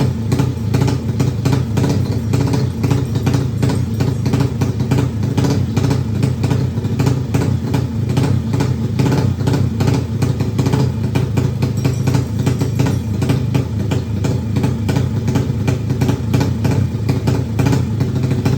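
Yamaha MX drag-racing motorcycle engine with an open exhaust, running steadily at a fast, loud idle with rapid even firing.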